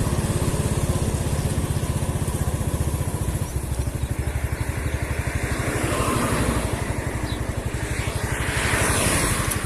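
Motorcycle engine running at a steady speed under way, with a fast even pulse. A louder rushing noise swells from about six seconds in and fades near the end.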